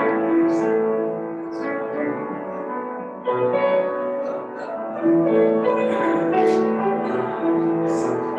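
Piano music playing held chords that change every second or so.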